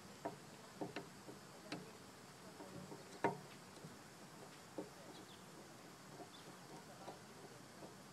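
Sparse light clicks and taps of a screwdriver and small flathead screws as the screws are backed out of a Briggs & Stratton lawnmower carburetor, the loudest tap about three seconds in.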